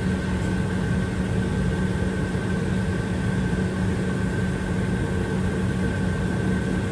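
Steady drone inside an Airbus A320 cabin: an even rushing noise with a low hum and a thin high whine held at a constant pitch.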